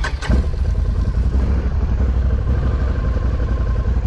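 ATV engine running under throttle: a steady low rumble that jumps louder about a third of a second in and then holds.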